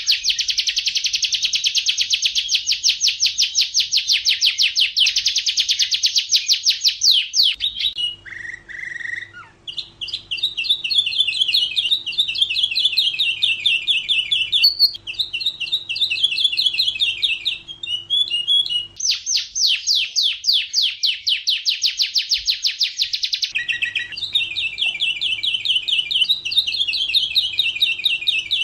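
Domestic canary singing a long continuous song. Loud runs of very rapid repeated notes at the start and again about two-thirds through alternate with softer warbling trill phrases. A faint steady hum lies under the warbling parts.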